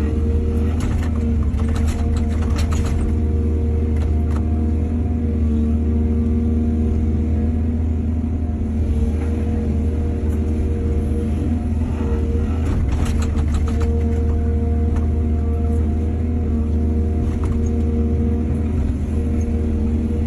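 Excavator's diesel engine running steadily under a heavy drone, with spells of rattling and clanking about one to three seconds in and again around thirteen seconds.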